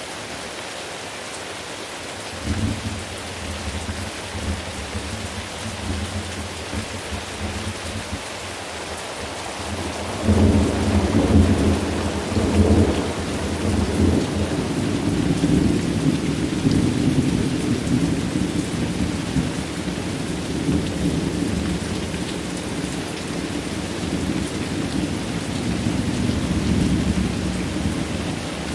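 Steady rain with rolling thunder. A low rumble begins about two and a half seconds in and swells into a louder peal about ten seconds in, then rolls on and fades near the end.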